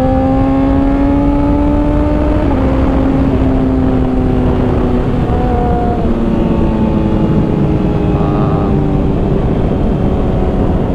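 Honda CBR600RR's inline-four engine running through a Hotbodies Stinger slip-on exhaust. Its note climbs gently, drops sharply about two and a half seconds in, and falls in a few further steps to a lower steady note near the end.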